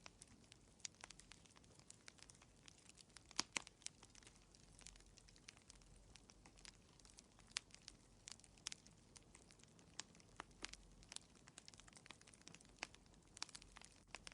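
Wood fire crackling quietly in a fireplace: irregular sharp pops and snaps over a faint hiss, the loudest pop about three and a half seconds in.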